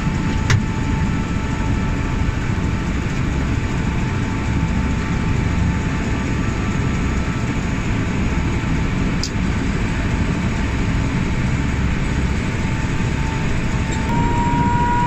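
Tour helicopter's turbine engine and rotor running, a steady heavy rumble with a thin whine that climbs slightly in pitch near the end.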